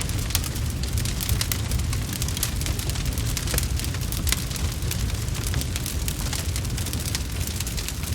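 Wood fire crackling, with many quick sharp pops and snaps over a steady low rumble.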